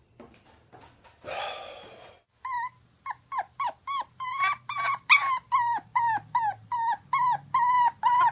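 Small dog yapping rapidly and repeatedly in short high-pitched yaps, about three a second. The yapping begins a couple of seconds in, after a brief rustle.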